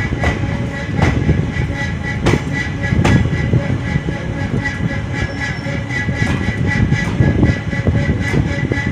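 Moving passenger train heard from on board: a steady rumble of wheels on rail, with a few sharp clicks in the first three seconds as the wheels cross rail joints, and a steady high whine under it.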